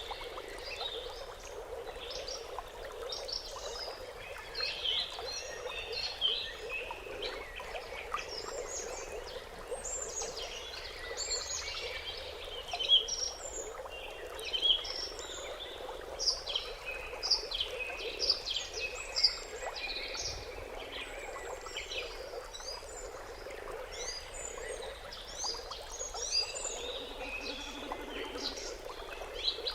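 A chorus of many small birds chirping and twittering in quick, overlapping short calls, over a steady low background hum.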